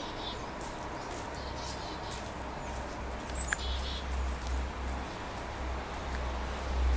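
Faint, short, high-pitched bird chirps, with a low rumble coming in from about halfway through.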